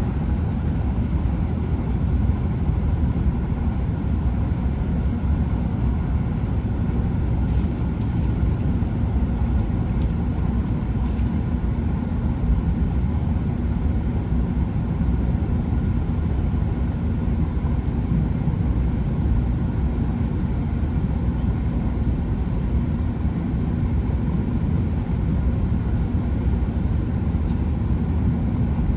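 Chiltern Railways Class 165 diesel multiple unit running: a steady low rumble of wheels on rail and underfloor diesel engines, with a few faint ticks between about eight and eleven seconds in.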